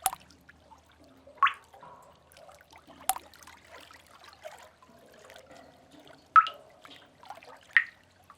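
Water drops falling into a pool in a sea cave, five separate drips, each a short pitched plop, spread unevenly over a faint trickle of moving water.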